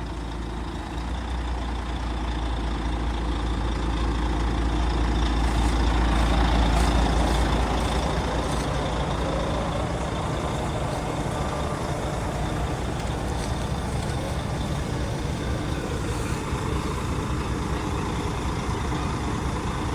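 Stuck, loaded dump truck's engine working under load as it tries to back out against a winch pull, swelling to a peak about six or seven seconds in and then settling to a steady run. The truck is sitting on its frame in the dirt, and the effort is getting it nowhere.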